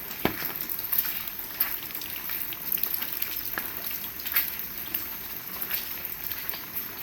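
Heavy rain falling as a steady hiss, with many irregular sharp drips and taps of drops hitting nearby surfaces. There is one duller, stronger knock just after the start.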